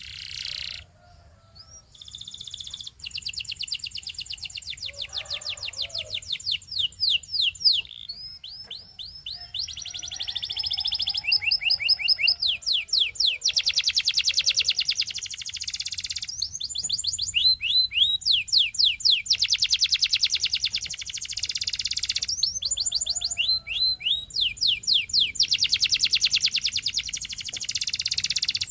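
Domestic canary singing a long, high-pitched song of fast trills, each a run of quickly repeated notes, switching to a new trill every second or two.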